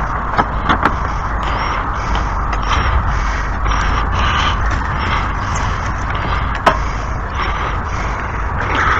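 A few sharp clicks of tools on a lawn mower's blade and blade bolt, three close together about a second in and one more near the seven-second mark, over a steady noisy rumble.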